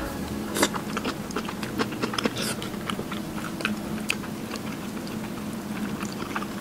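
Close-up sounds of a person eating cheese pork cutlet soaked in kimchi broth over rice: chewing and biting, with many scattered small clicks.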